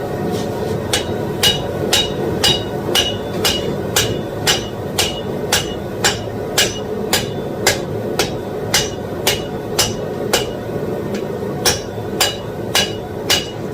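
Hand hammer forging a railroad spike into a knife: a steady run of blows, about two a second, each with a short metallic ring.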